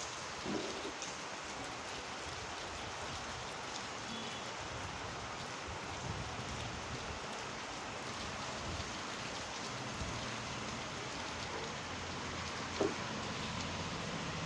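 Heavy rain falling steadily, an even hiss of rain on surfaces, with a few faint drips and taps.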